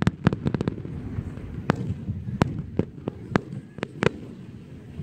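Fireworks display going off: a quick run of sharp bangs in the first second, then single bangs about every half second.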